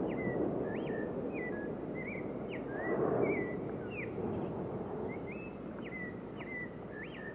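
Low, continuous rumbling of an erupting volcano, swelling about three seconds in, with repeated short high chirping calls over it.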